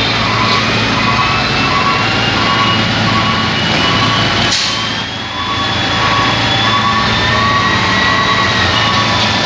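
A truck's backup alarm beeping steadily and evenly over a running diesel engine, with a high whine that slowly rises in pitch. A short burst of hiss comes about halfway through.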